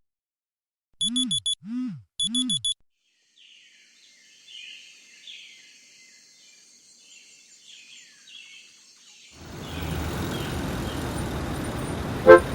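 An electronic alarm tone beeps in rapid pulsed bursts over a repeating low swooping note for under two seconds. Faint birds chirp after it, and about three-quarters of the way in a steady loud noise, like street ambience, starts abruptly.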